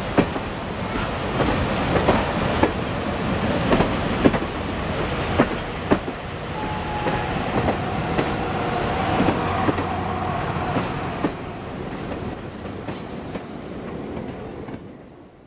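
Passenger railroad coaches rolling past, their wheels clicking over rail joints at irregular intervals, with a thin wheel squeal for a few seconds mid-way, over the steady rush of a waterfall. The sound fades out near the end as the train's tail passes.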